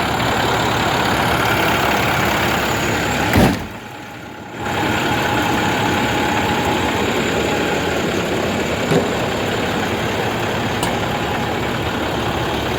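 International DT466E inline-six turbodiesel in a 2001 International 4900 box truck idling steadily. A single knock comes about three and a half seconds in, and the sound briefly drops off for about a second before the idle resumes.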